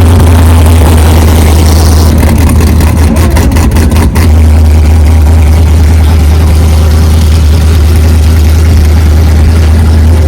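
Motorcycle engine running under loud, steady low wind rumble on the microphone. The sound briefly breaks up about three to four seconds in.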